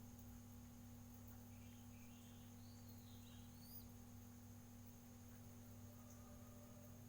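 Near silence with a steady low hum. A few faint high bird chirps come in a couple of seconds in.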